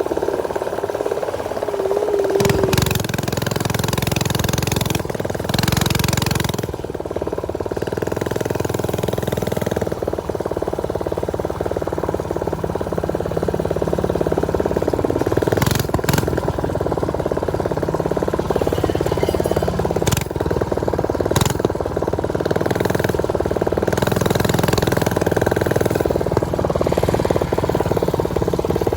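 Small single-cylinder motorbike engine running steadily under way while riding, its pitch wavering with the throttle. A few sharp knocks come through in the second half.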